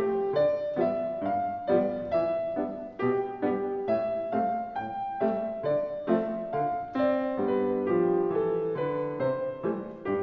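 Piano duet playing a classical piece: a melody over chords, notes struck at a steady pulse of about two a second.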